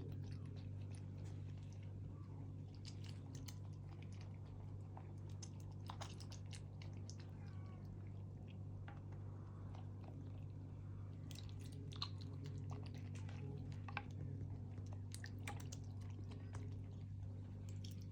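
Golden eagle eating its food, scattered sharp clicks and crunches of tearing and biting over a steady low hum.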